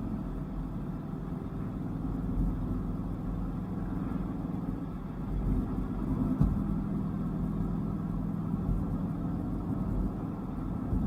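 Dodge Viper GTS's V10 engine running while driving along a winding road, with road noise underneath. The engine note eases off briefly about five seconds in, then picks up again, with one sharp knock just after.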